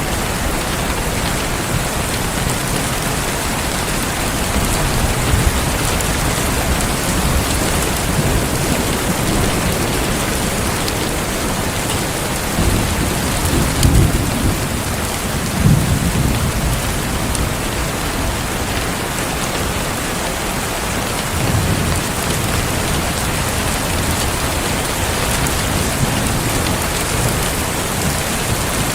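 Heavy rain falling steadily, with low rolls of thunder rumbling about halfway through and once more a little later.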